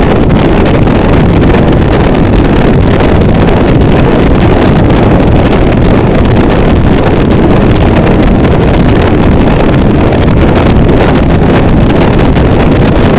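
Harsh noise wall: a loud, dense, unchanging wall of distorted static, heaviest in the low end.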